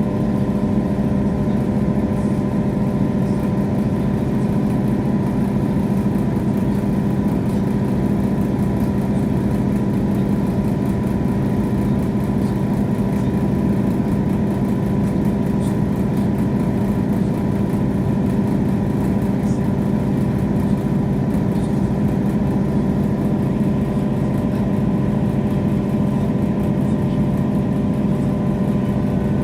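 Diesel train engine running steadily, heard from inside the carriage: a constant low rumble with several steady humming tones that do not change pitch.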